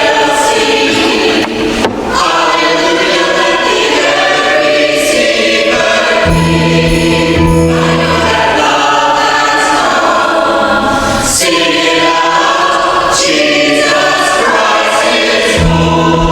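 Church choir singing an Advent or Christmas piece in sustained chords, with a brief break about two seconds in.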